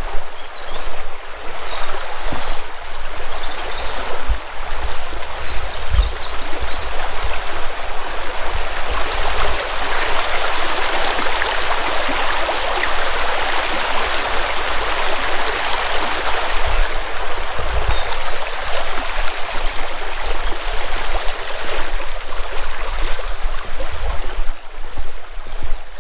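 River water flowing and babbling over rocks, a steady rush, with scattered low thumps from wind or handling on the microphone.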